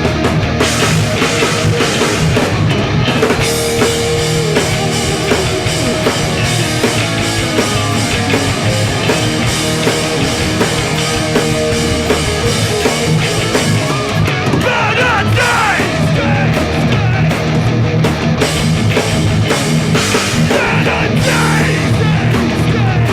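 Hardcore punk band playing live at full volume: distorted electric guitars, bass and a drum kit driving a steady, fast song.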